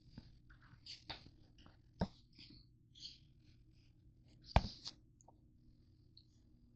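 Crunchy granola bars being crushed in a bowl: scattered crunches and clicks, with one sharp knock about four and a half seconds in.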